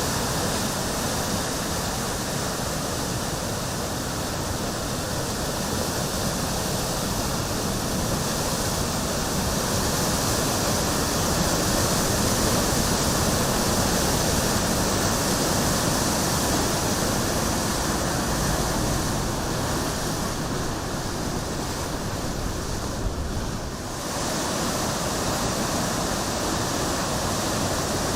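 Floodwater in a swollen river rushing steadily, with a brief dip about 23 seconds in.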